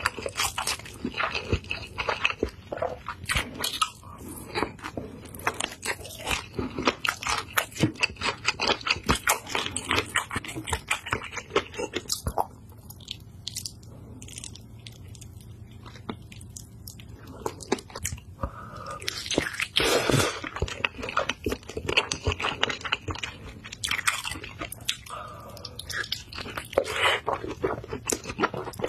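A person biting into and chewing sauced chicken drumsticks, with rapid wet clicking and crunching mouth sounds. Partway through the chewing drops off for a few seconds, then picks up again with a louder stretch.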